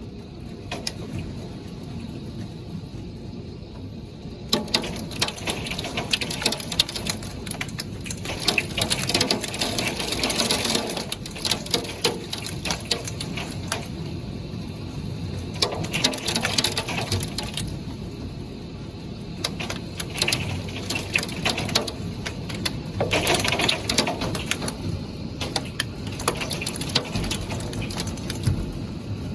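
Rain of a severe thunderstorm over a steady low rumble, surging in heavier gusts every few seconds, with sharp ticks of drops striking a hard surface.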